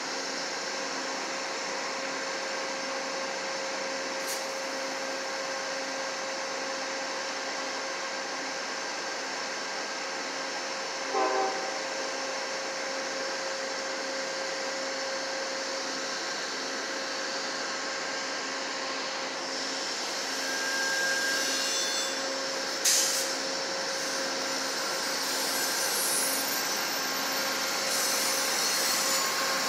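Amtrak passenger train with its GE P42DC diesel locomotive running steadily, a whining hum with a steady tone and a pulsing lower note. A short pitched note sounds about eleven seconds in; in the last third the train noise builds, with a sharp clank.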